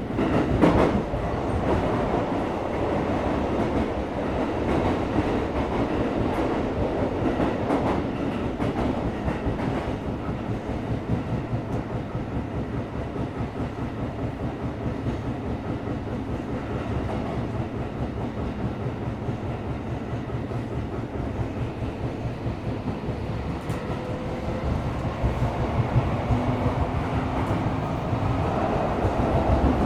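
Cabin running noise of a Tokyo Metro 17000 series subway train under way: a steady rumble of wheels on rail, with some clickety-clack.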